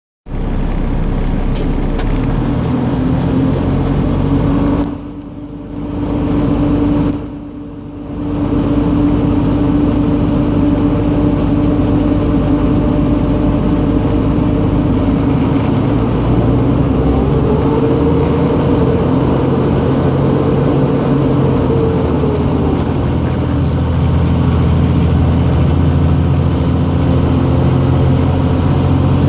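Truck engine running under way, dropping away briefly twice about five and seven seconds in, then rising slowly in pitch and falling back later on. This is a sluggish loaner truck with a long delay in its throttle response.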